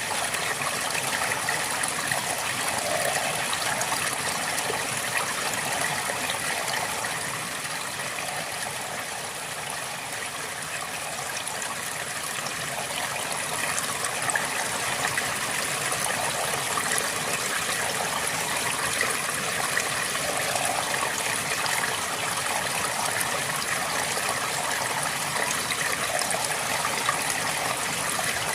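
River water flowing steadily over stones, a continuous babbling rush with small splashes.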